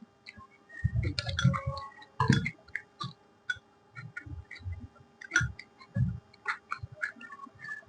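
A person chewing and eating close to the microphone: irregular wet mouth clicks and soft chewing thumps.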